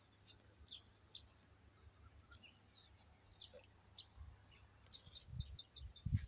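Small birds chirping, faint and scattered, with one bird starting a quick run of short, evenly spaced chirps, about four a second, near the end. Two low thumps just before the end.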